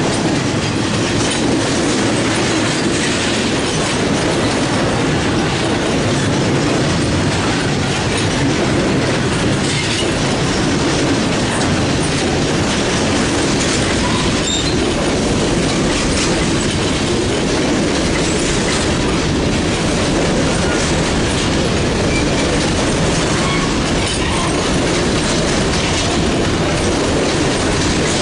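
Mixed freight train rolling past: a steady rumble of steel wheels on rail with clickety-clack over the rail joints and a few brief, faint wheel squeals.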